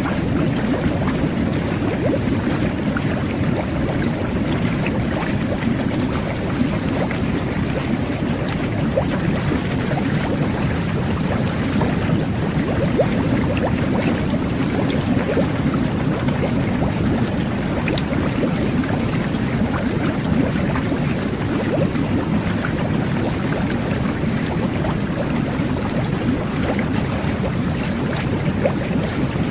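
Jet bath running: a steady bubbling and churning of water driven by the tub's jets and air bubbles.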